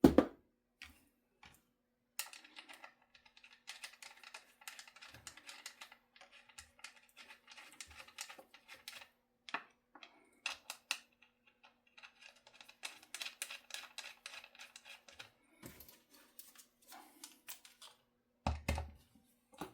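Light scattered clicks and rattles of small guitar hardware being handled, with a rubber-mallet tap right at the start and a couple of dull thumps near the end.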